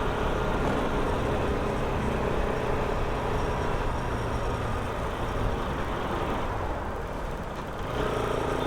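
Road and traffic noise heard from a moving motorcycle, an even rush of wind and engine sound. A steadier engine hum comes in near the end.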